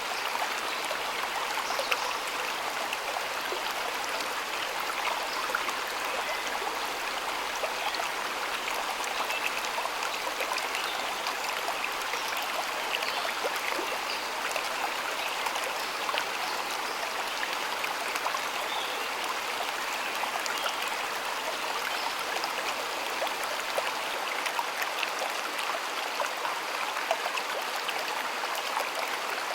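Shallow stream of water flowing and babbling steadily, with many small splashes and trickles.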